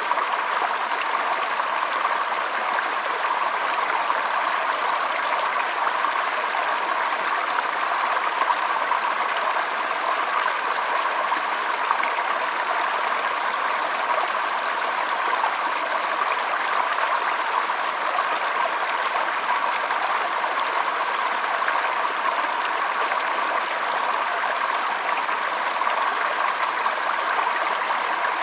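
Shallow stream trickling and burbling over stones in a steady, unbroken wash of water.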